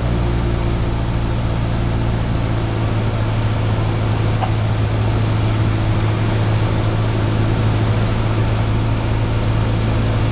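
Cessna 172R's four-cylinder Lycoming IO-360 engine and propeller droning steadily in flight, heard from inside the cabin as a constant low hum over a wash of air noise.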